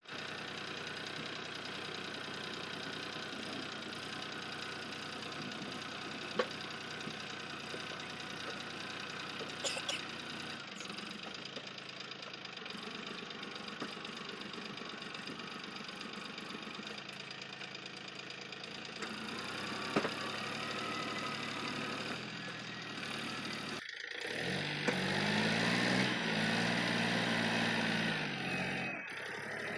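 Tractor's diesel engine running steadily, then revved up and down near the end, as if straining against the load.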